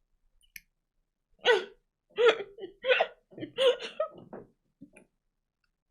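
A high-pitched voice makes about six short, separate vocal bursts in quick succession, squeal- or hiccup-like rather than words.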